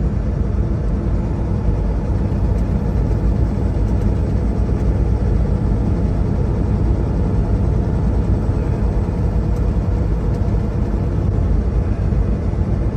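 Steady low rumble of a semi truck's diesel engine and road noise while driving, heard from inside the cab.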